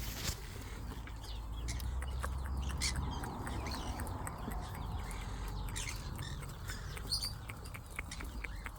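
Parrot giving a few short chirps and squawks now and then, among scattered light clicks and taps.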